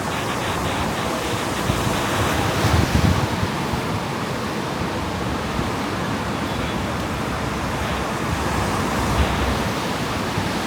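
Ocean surf washing in steadily, with wind buffeting the microphone in uneven low rumbles.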